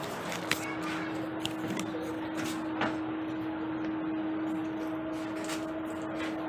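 A steady mechanical hum, one low tone with a fainter higher one, with a few light clicks and knocks.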